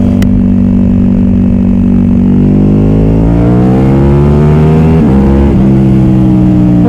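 Ducati 1299 Panigale's L-twin engine through a full titanium Akrapovic exhaust, running at a steady note, then accelerating with a rising pitch for a couple of seconds. There is a brief break in the note about five seconds in, and then it runs steadily again.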